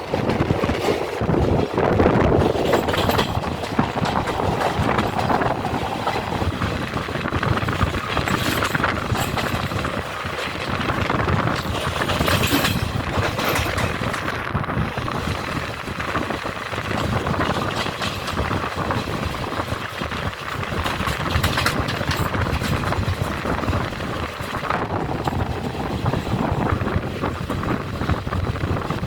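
A moving train running along the track: a steady rumble with frequent short rattles and clacks from the wheels and carriages.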